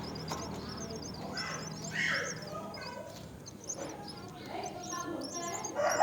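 Birds chirping: many quick, thin, high chirps throughout, with a few harsher, lower calls, the loudest about two seconds in.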